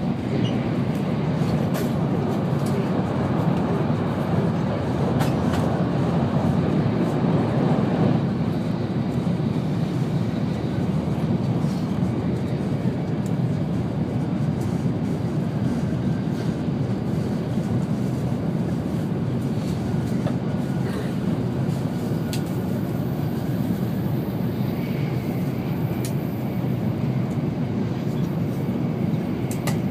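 N700-series Shinkansen running steadily, heard from inside the passenger cabin: a continuous low rumble of wheels on rail and air noise, with a few faint ticks.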